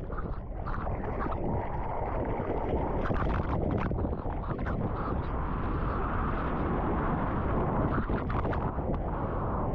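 Water rushing and splashing around a surfer in the ocean, with gusty wind buffeting the microphone; a few sharp splashes about three to four seconds in, and the rushing grows brighter in the second half.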